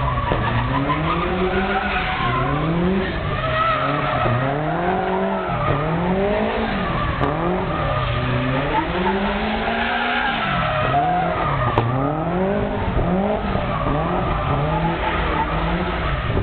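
Subaru's flat-four engine revving up and down over and over, pitch rising and falling about once a second, as the car drifts with its tyres squealing.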